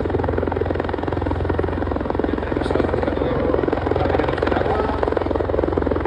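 Helicopter running steadily, a rapid beat of rotor blades over a continuous engine drone.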